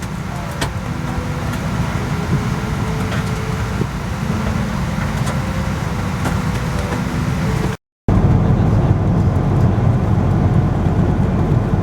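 Steady low rumble of a parked Boeing 777's cabin air-conditioning, with faint clicks. It cuts out for a moment about eight seconds in and returns slightly louder.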